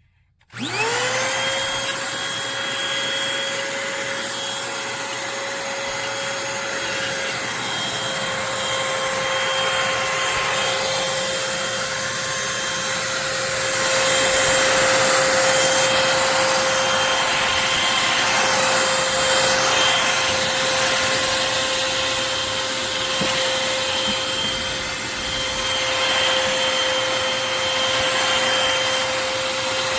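Eureka Blaze stick vacuum switched on about half a second in: its motor spins up within a moment to a steady whine over a rush of air, then runs on, louder for a few seconds about halfway through.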